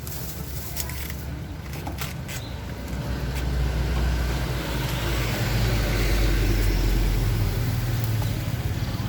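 A motor vehicle's engine rumbling past close by, growing louder from about three seconds in and easing off near the end.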